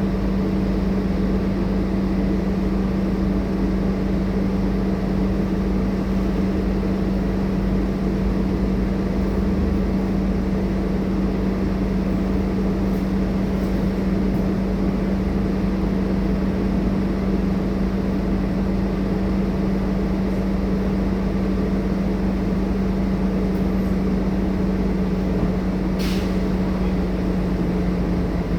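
Scania K230UB city bus running steadily, its diesel engine giving a constant drone with a strong steady hum. A brief high hiss or click sounds once near the end.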